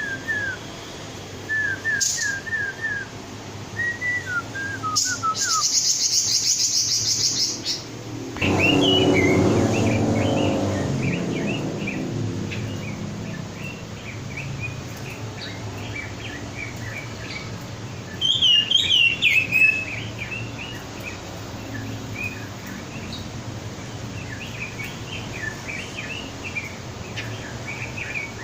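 Red-billed leiothrix (Pekin robin) singing in short chirps and quick whistled phrases, with a buzzy rattle about five seconds in and a louder burst of song near twenty seconds. A loud rush of low noise comes in about eight seconds in and fades over several seconds.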